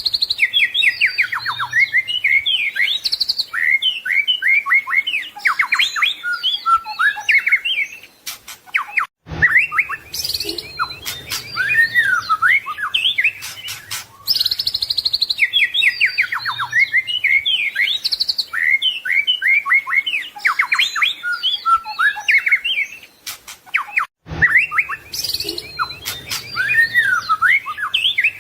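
White-rumped shama (murai batu) singing a rich, rapid song of fast trills, sweeping whistles and varied chattering phrases. There are short breaks about 9 s and 24 s in, after which the same passage starts again.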